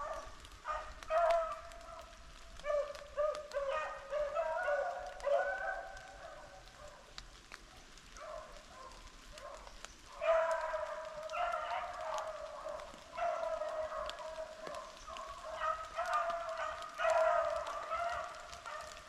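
A pack of beagles baying on a rabbit's track, several voices overlapping in short and drawn-out bays. Scattered at first, the chorus fills in from about ten seconds in.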